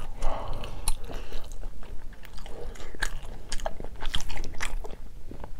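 Close-miked chewing of a mouthful of food, with many short mouth clicks and smacks scattered through it.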